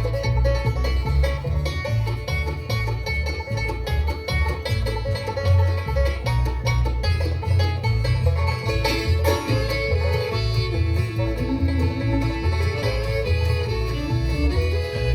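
Bluegrass band playing an instrumental passage with the five-string banjo to the fore, backed by guitar, fiddle and a steady upright bass line.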